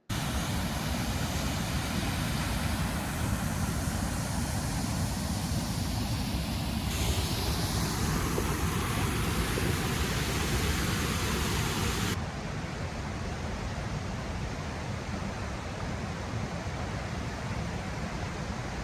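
Steady rush of a small waterfall and creek, an even continuous hiss of water. The sound shifts abruptly about seven seconds in and drops a little about twelve seconds in.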